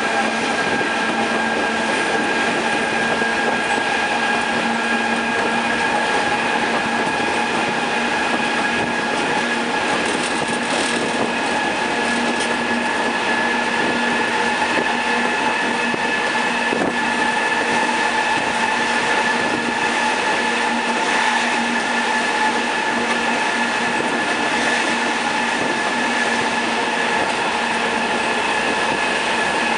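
White Pass & Yukon diesel-hauled train running downgrade on its narrow-gauge mountain line: the locomotive and wheels on rail make a steady running noise, with continuous high-pitched squealing tones over it.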